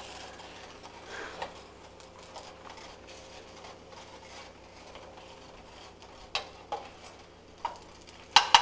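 A naan on a griddle pan faintly sizzling in ghee, with a steel spoon now and then clicking and scraping against the pan. Sharper clinks and knocks come in a cluster over the last two seconds as the naan is lifted and turned.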